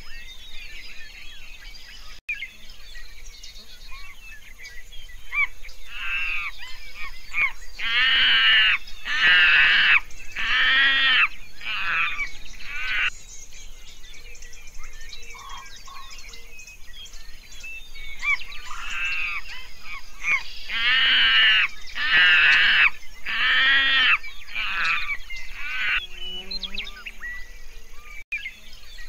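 An animal calling in two bouts, each of about six or seven loud calls that rise and fall in pitch, roughly a second apart. The calls are loudest in the middle of each bout, with a pause of about five seconds between the bouts.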